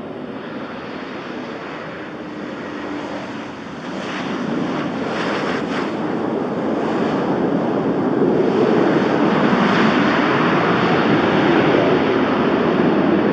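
Alaska Airlines Boeing 737 arriving, its jet engines making a steady rushing noise that grows louder about four seconds in and stays loud.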